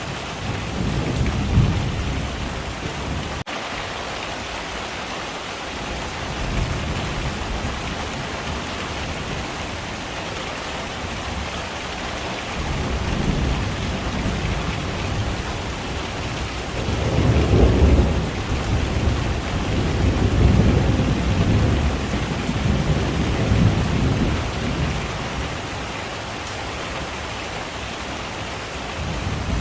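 Heavy rain falling steadily, with low rolls of thunder swelling and fading several times; the loudest rumble comes a little past the middle.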